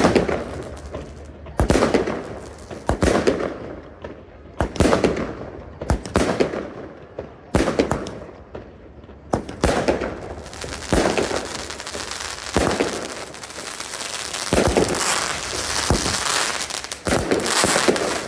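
Fireworks display: aerial shells bursting in a steady series of sharp bangs, about one every second or two, each followed by crackling. In the last few seconds the crackling thickens into a continuous fizz between the bangs.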